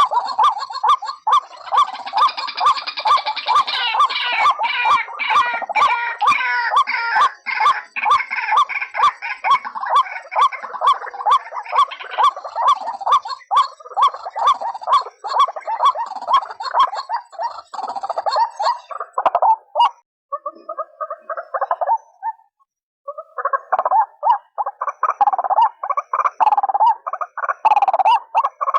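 White-breasted waterhens (ruak-ruak) giving their loud, harsh repeated calls as a recorded lure, several birds overlapping in a fast, regular rhythm. The chorus thins out about two-thirds of the way through, stops for a moment, then starts again.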